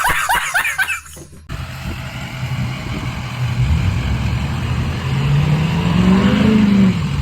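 Ford F-250's 6.0 L Power Stroke V8 turbodiesel running on the road over steady road noise. About five seconds in, its note rises as the truck accelerates, then eases off near the end. The first second holds a quick run of repeated chirp-like sounds before a cut.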